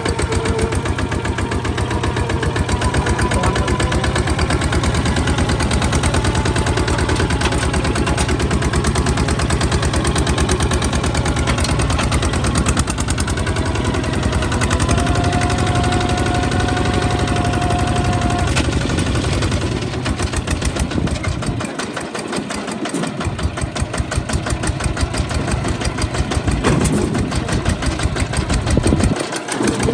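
Kubota ZT155 single-cylinder diesel engine of a tractor running steadily, its firing a rapid, even chug. Near the end the deepest part of the engine sound briefly drops away twice.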